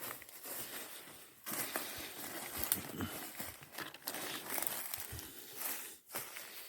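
Footsteps through forest leaf litter and undergrowth: uneven rustling and crunching with a few sharp snaps.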